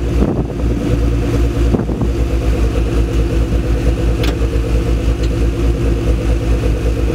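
Sports car engine idling with a steady, even pulse, with some movement in pitch in the first couple of seconds. A single sharp click about four seconds in.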